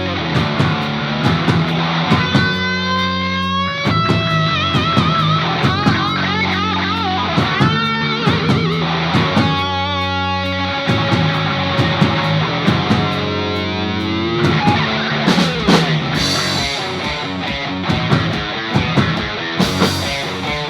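Heavy rock instrumental: distorted electric guitar riff over bass and drums, with lead guitar lines that bend and waver in pitch and cymbal crashes near the end.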